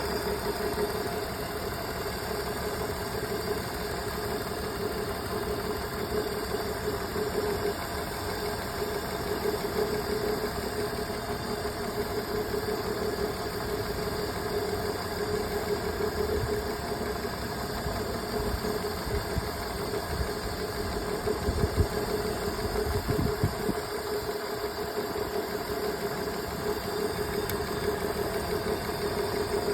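BMW engine idling steadily, the engine being diagnosed for a misfire on cylinder 2. A couple of brief low knocks come about two-thirds of the way through.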